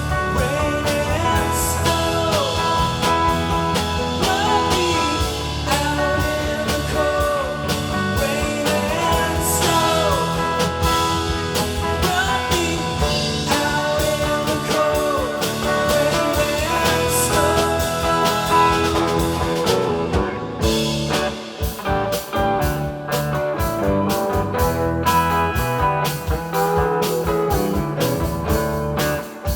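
Rock band playing with electric guitar, bass and drum kit, a lead line bending up and down between notes; about twenty seconds in the playing turns sparser, with sharp separate drum hits.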